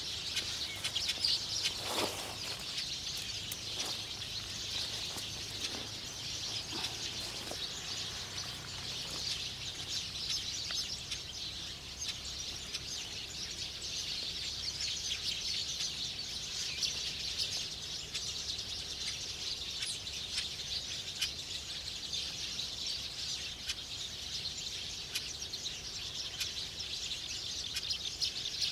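Wild birds chirping and twittering in a dense, unbroken high-pitched chorus, with one louder call about two seconds in.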